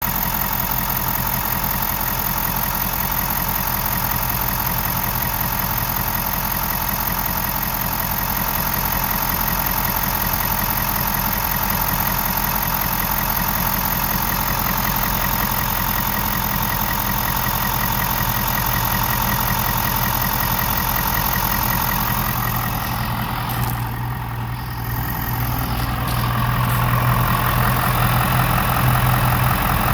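Ford 6.7 L Power Stroke V8 turbodiesel from a 2020 F-250 idling steadily. About 23 seconds in the sound shifts and briefly drops, then comes back slightly louder with a stronger low note.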